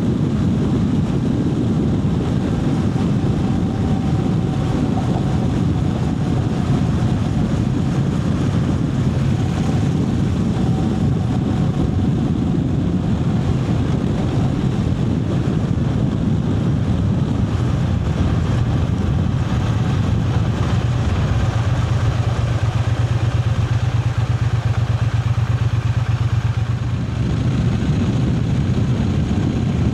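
Triumph Speed Twin 900's parallel-twin engine running steadily while riding, a continuous low exhaust hum. Its level dips briefly about three-quarters of the way through, then it carries on.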